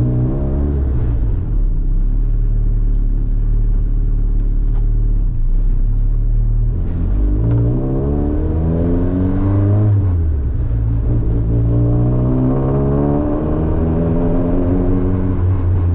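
Honda Civic engine and exhaust heard from inside the cabin, with sound-deadening mat on the floor, accelerating: the pitch climbs, drops at a gear change about ten seconds in, then climbs again over a steady low road rumble.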